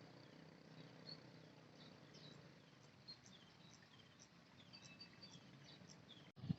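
Faint rural ambience of small birds chirping, many short high calls, some falling in pitch, over a low steady rumble. The sound cuts out for an instant just before the end, followed by a sudden thump.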